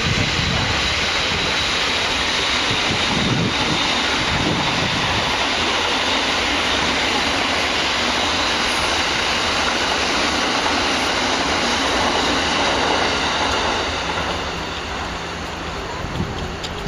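Freight train passing on the rails: a steady rumble and clatter of wheels that eases off a little near the end.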